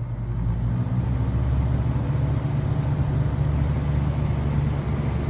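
Hager box fan running on its high speed setting: a steady low motor hum with a rush of moving air, growing a little louder over the first second, then holding even.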